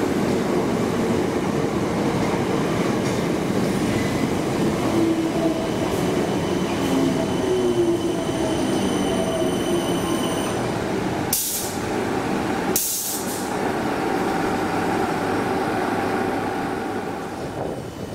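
Electric multiple-unit passenger train running through the station: a steady rumble of wheels on rail with gliding whines, and two short sharp hisses about a second and a half apart past the middle. It fades a little near the end.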